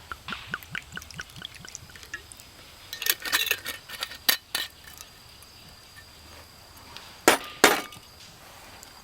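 Hard camp gear being handled: a run of small clinks, then a cluster of knocks, and two louder sharp knocks close together about seven seconds in.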